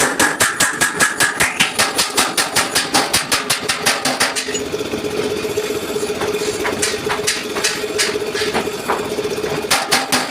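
Fast, even hammer blows on a truck's steel front bumper during dent repair, about five a second. About four and a half seconds in the hammering stops and a steady machine hum takes over, with a few scattered knocks. The rapid hammering starts again near the end.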